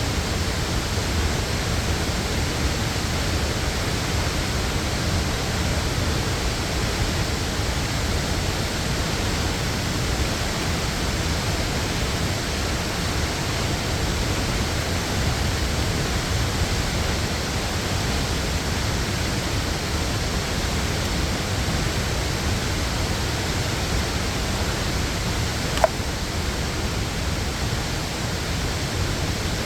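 Waterfall rushing in a steady, unbroken roar of falling water, with one brief click near the end.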